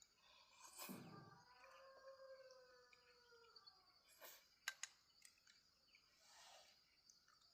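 Faint animal call: one drawn-out pitched note about two seconds long that falls slightly at the end, over a steady high hum, with a few sharp clicks after it.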